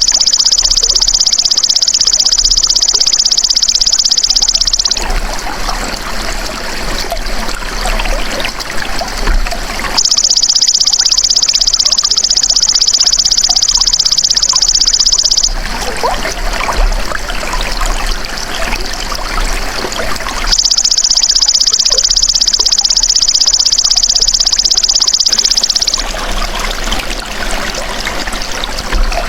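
Belalang emas insect singing: a loud, high, rapidly pulsing buzz about five seconds long, given three times roughly ten seconds apart. Between the buzzes a steady trickle of running water is heard.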